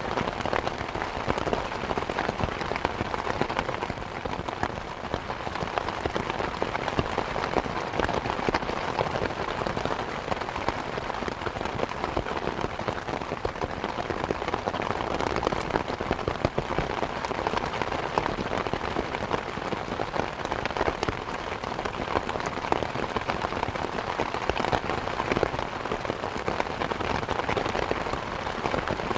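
Steady rain falling on surfaces, a dense even patter of countless individual drops.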